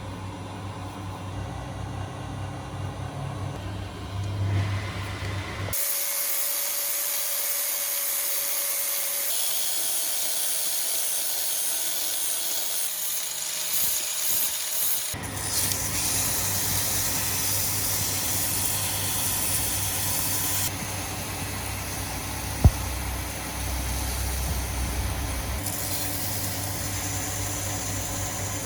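Steady mechanical noise of workshop power-tool work: a low hum with hiss, switching abruptly a few times, once to a bright high-pitched hiss without the hum for several seconds.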